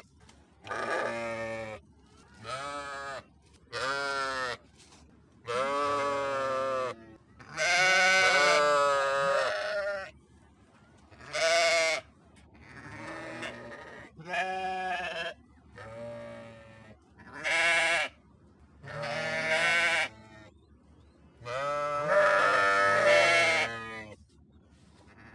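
Sheep bleating over and over: about a dozen separate quavering bleats of varying length, the longest drawn out for two seconds or more.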